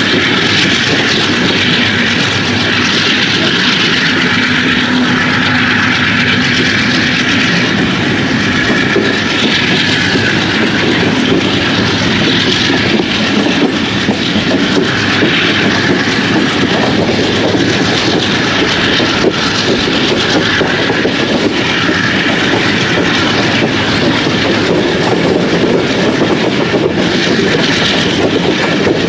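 Passenger train running at speed, heard from on board: a steady rush of wheels on rail and wind, with the clickety-clack of the wheels over rail joints.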